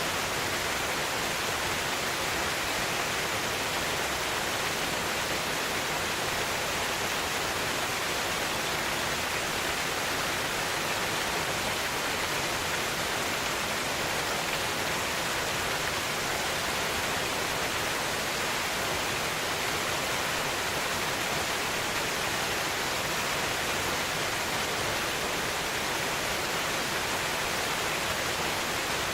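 Waterfall swollen with snowmelt, its water crashing down in a steady, strong rush.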